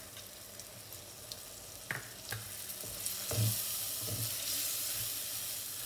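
Chili paste sizzling and frying in hot oil in an earthenware pot as it is stirred in with a spatula, with a few scrapes and knocks against the pot. The sizzle grows louder about three seconds in, as the paste meets the oil.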